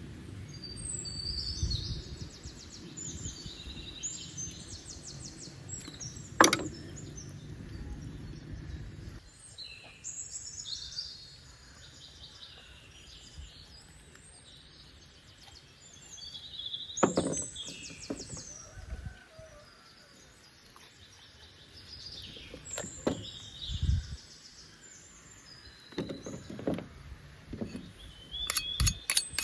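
Birds calling in short bursts of high, rapid trills, with several sharp knocks, the loudest about six seconds in. A low rumble runs under the first nine seconds, then stops.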